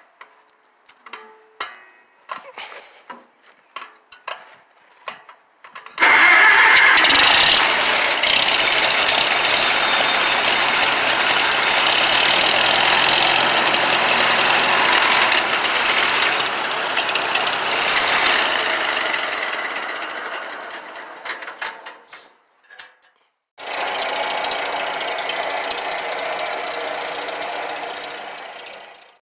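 Old tractor engine: about six seconds of separate sharp clicks and knocks, then the engine running loud and steady. It fades away a little past twenty seconds, then comes back suddenly and runs loud again.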